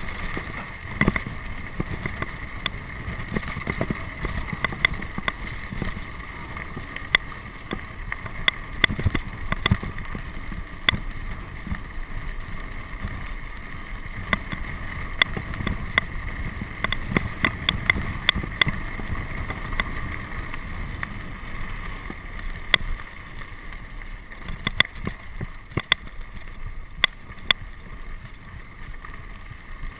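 Steady rumbling noise with wind buffeting the microphone, broken by frequent sharp clicks and rattles.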